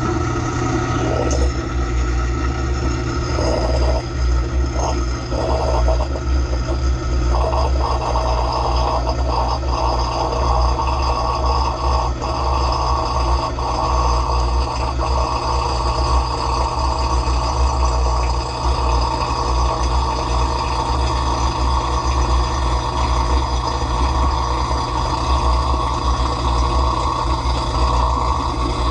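Dishwasher running mid-cycle, heard from inside the tub: the pump motor hums steadily while water jets spray and splash against the dishes and racks.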